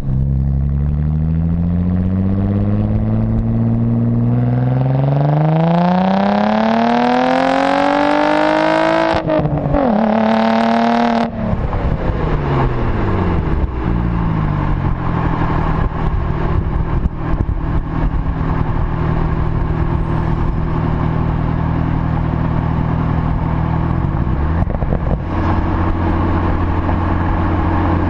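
APR Stage 2+ tuned Audi S4 with a dual exhaust, revved slowly up over about nine seconds and held high briefly. It is then released, dropping sharply and falling back to a steady idle, with a small blip near the end.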